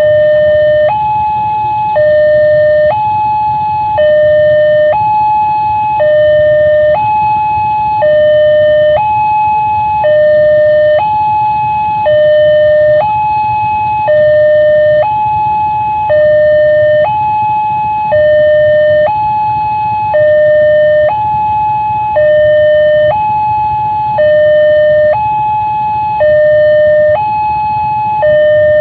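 Railway level-crossing warning alarm sounding continuously, an electronic two-tone signal alternating between a higher and a lower tone about once a second, warning that a train is approaching. A steady low rumble runs beneath it.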